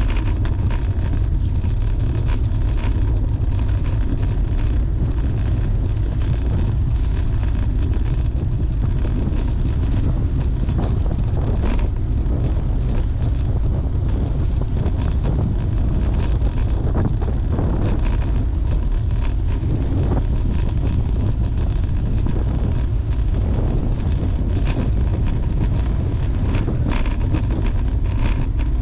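Wind buffeting the microphone of a camera riding on a moving bicycle: a steady low rumble, with scattered small clicks and rattles from the bike and road.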